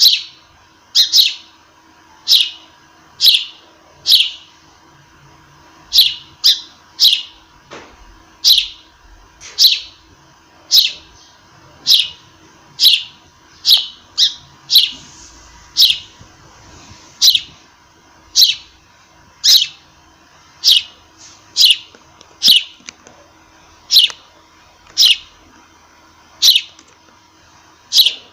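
A sparrow chirping over and over, short sharp cheeps about once a second, now and then two in quick succession.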